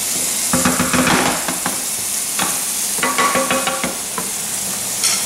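Cooked ground beef sizzling in a frying pan, with a utensil scraping and clattering against the pan in two short spells as the meat is moved out to drain.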